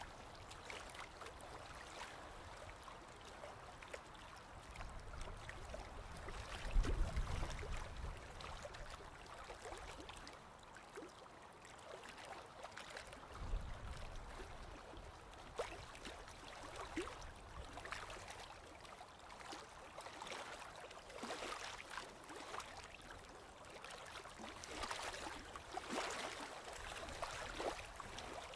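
Sea water at the shore washing, gurgling and trickling, with many small crackling pops. There are two heavier low surges, about seven and thirteen seconds in.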